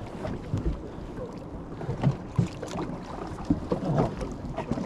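Rumbling noise of a fishing boat at sea, with wind on the microphone and scattered short knocks.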